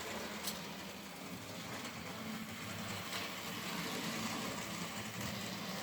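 Small model steam locomotive running round a model railway track: a steady hum from its electric motor and wheels on the rails, with a couple of faint clicks.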